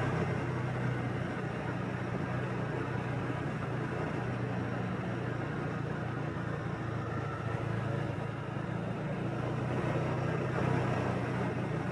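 Motorbike engine running at a steady cruise as it rides along, a constant low hum over road noise.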